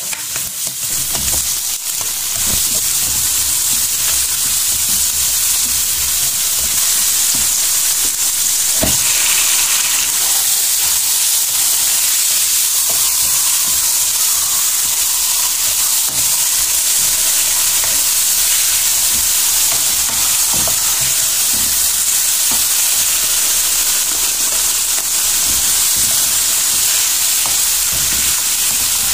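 Onions, ginger and garlic sizzling in hot oil in a wok, with a porcupine fish, tomatoes and black beans frying among them, while a spatula stirs and scrapes against the pan with scattered light clicks. The sizzle grows louder about two seconds in and then holds steady.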